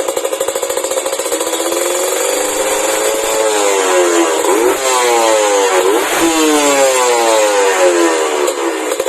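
Kawasaki Ninja 150 RR's two-stroke single-cylinder engine running through a WRS aftermarket exhaust. It idles steadily at first, then is revved up several times, the pitch rising and falling with each blip of the throttle.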